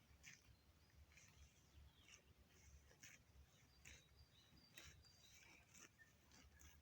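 Faint forest birdsong: short, high chirps from small birds, several a second and irregular, over a low rumble.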